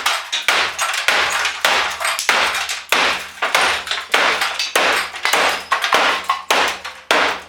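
Rapid repeated hammer blows on a desktop computer's metal and plastic parts, about three sharp impacts a second, smashing it apart.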